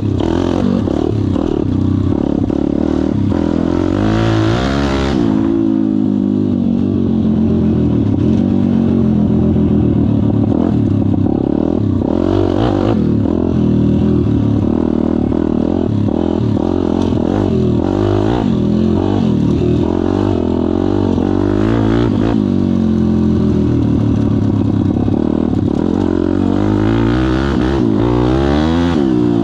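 Pit bike's single-cylinder four-stroke engine running under way, its pitch rising and falling as the throttle is opened and closed, with clear revs about four seconds in and again near the end.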